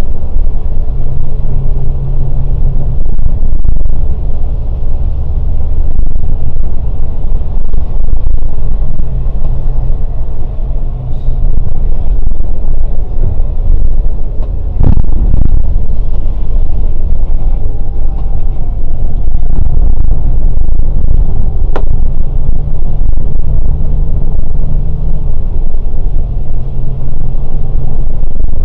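Scania K410 coach under way: a loud, steady low rumble of engine and road, with the engine hum swelling now and then. There is a thump about halfway through and a short click later on.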